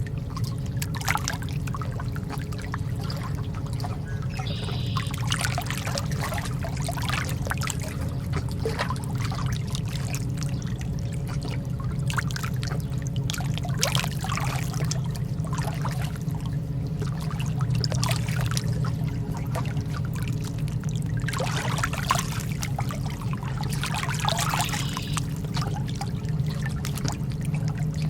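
Lake water lapping and trickling in small irregular splashes, over a steady low rumble.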